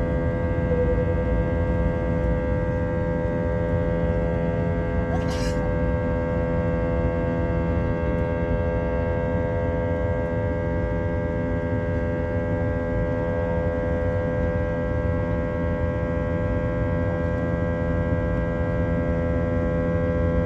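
Airbus A321's jet engines heard from inside the passenger cabin: a steady drone with a cluster of steady tones over it. A brief hiss cuts in about five seconds in.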